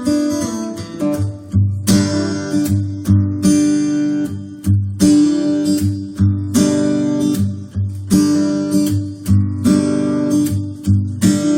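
Acoustic guitar strummed in a steady, even rhythm: the instrumental intro of a song, with no singing yet.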